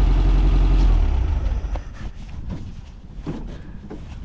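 Dune buggy's air-cooled 1600cc Volkswagen flat-four engine running steadily, then dying away about a second in, with the driver suspecting it is out of gas. A few faint knocks follow once it has stopped.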